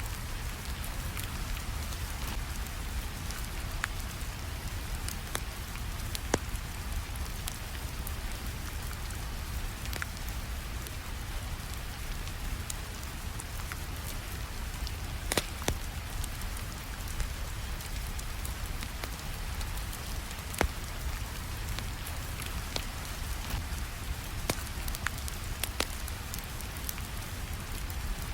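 Steady rain mixed with a wood fire crackling, with sharp pops scattered irregularly throughout; the loudest pops come about halfway through.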